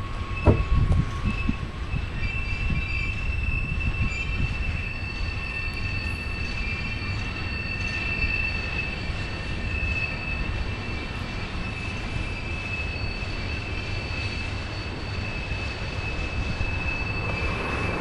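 BNSF freight train rolling by with a steady low rumble, its wheels squealing in high, sustained tones. There is a sharp knock about half a second in.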